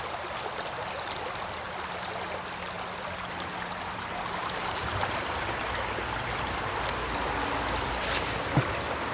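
Creek water running steadily over the stream bed, with a couple of light clicks near the end.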